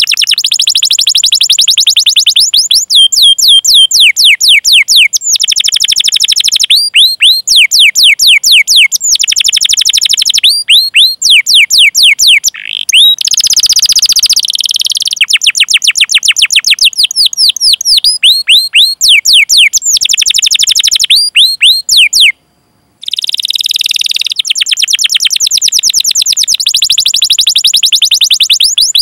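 Domestic canary singing: long rolling trills of rapid repeated notes alternating with series of falling 'cuit cuit' whistles, broken into phrases, with a brief gap a little after twenty-two seconds.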